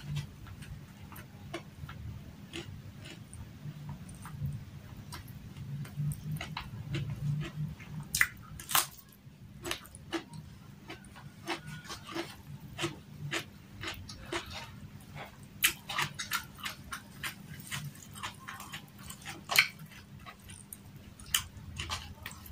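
Close-up eating sounds: chewing and smacking of rice, fried milkfish and raw vegetables eaten by hand, with many irregular sharp clicks and crunches.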